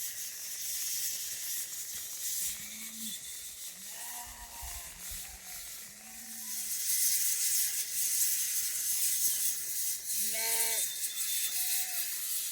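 A steady hiss of rain that gets louder about halfway through. Over it come several short animal calls, with a stronger one near the end, typical of a flock of sheep and goats.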